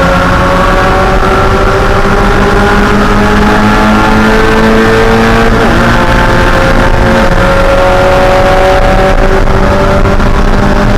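Mazda Miata 1.6-litre four-cylinder race engine running hard at high revs, its pitch climbing slowly for several seconds, with a brief drop in pitch about seven seconds in before it climbs again.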